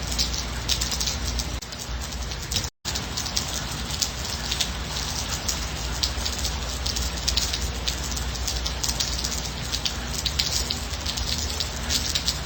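Steady gentle rain, many individual drops ticking through an even hiss. The sound cuts out completely for a split second about three seconds in, then resumes unchanged.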